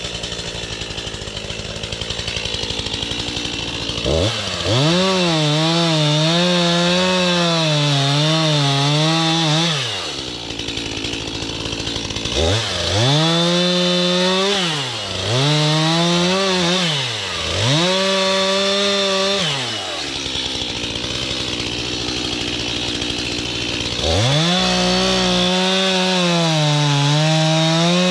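Gasoline chainsaw idling, then throttled up to full revs in several bursts: a long one about four seconds in, three short ones in the middle, and another near the end, falling back to idle between them. The pitch wavers and sags while at full revs, as the chain bites into a tree trunk under down pressure.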